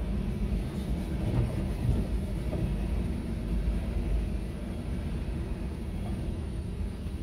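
Loaded coal hopper cars of a freight train rolling past on the rails: a steady low rumble, heard from inside a car.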